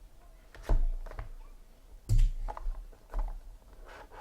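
A handful of sharp taps and knocks, about five in four seconds, the loudest about a second and two seconds in, from trading cards and their plastic holders being handled and set down on a table.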